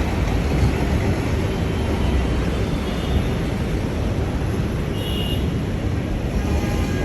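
Steady low rumble of outdoor city noise, with no single sound standing out.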